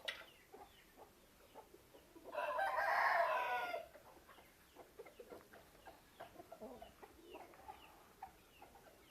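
An Aseel rooster crows once, starting about two seconds in and lasting about a second and a half. Faint short clucks and calls from the chickens follow through the rest.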